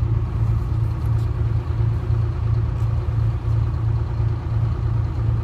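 Detroit Diesel 6V71 two-stroke diesel of a 1970-71 GMC New Look bus running steadily: a low, even drone with a regular pulse and no change in pitch.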